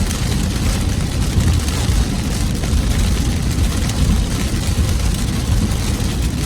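Torrential rain pelting a moving car, heard from inside on a dashboard camera: a steady, dense hiss of rain over a deep rumble of the car and road.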